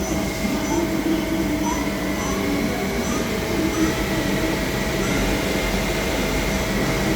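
CNC lathe running steadily, a constant hum with a wavering lower drone and a faint high tone that keeps cutting in and out.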